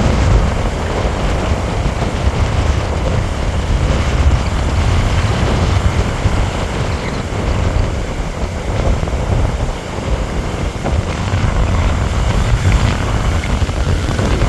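Strong wind buffeting the microphone with a steady, rumbling roar, over the sound of heavy surf.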